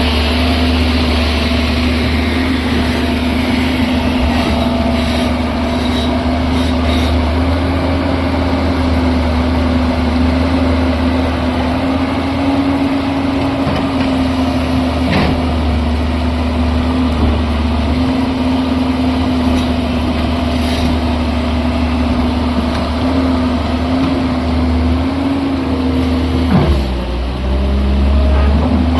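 Diesel engine of a JCB construction machine running steadily at idle, with a brief dip in pitch near the end.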